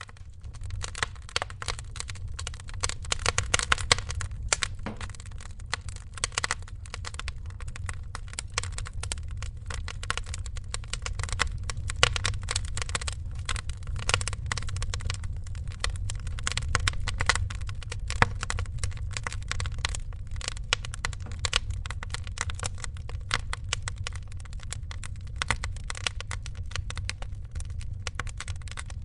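Fireplace fire crackling, with dense irregular pops and snaps over a low steady rumble. It fades in from silence at the start.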